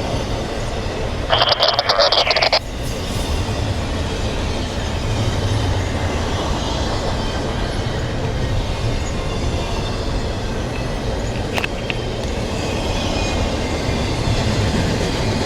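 A train passing close by on the rails: a steady rolling rumble of wheels and cars. A brief, louder high-pitched burst comes just over a second in.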